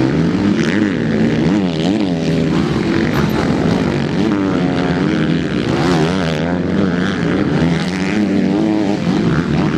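Several MX2 motocross bikes racing, their engines revving up and down in pitch as they accelerate and shift, overlapping one another.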